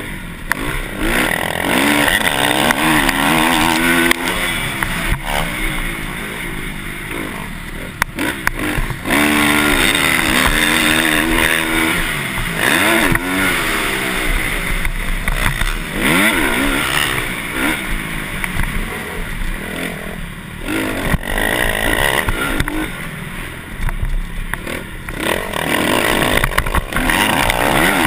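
Motocross bike engine revving hard and easing off again and again, its pitch climbing and falling with each throttle change as it rides the track.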